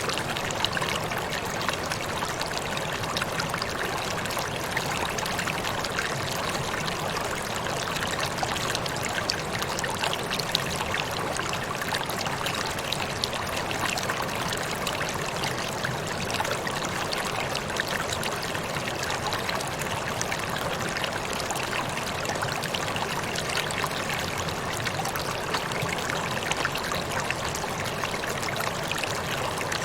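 Steady rush of falling water from a waterfall, an even splashing hiss with small sharp splashes throughout.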